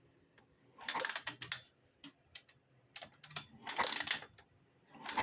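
Honda 250X ATV engine turned over in four short bursts with its spark plug out, a mechanical rattling, to check for spark; none is showing, which points to a failed ignition coil.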